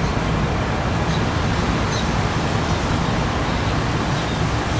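Steady outdoor background noise: a constant hiss with a low rumble underneath and no distinct events.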